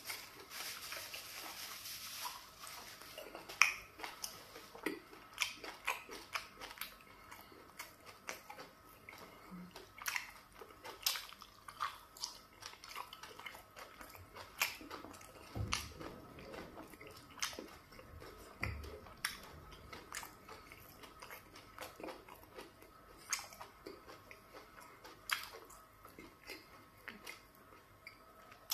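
Close-miked chewing and wet lip-smacking of a person eating fufu with garden egg soup by hand, irregular mouth clicks and smacks one after another. A brief rustle at the start.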